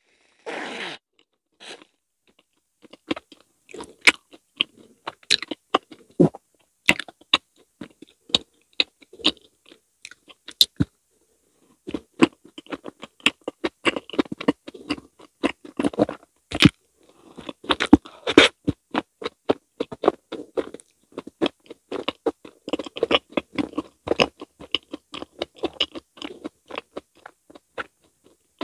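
A short hiss of whipped cream sprayed from an aerosol can onto a mochi, then close-miked bites and chewing of whipped-cream-topped fruit mochi: many sharp mouth clicks and smacks, thickest in the second half.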